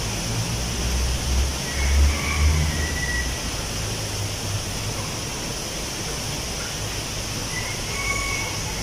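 Wind blowing through tree leaves, a steady rustling hiss. A low rumble swells and fades over the first few seconds, and a few faint short high chirps come now and then.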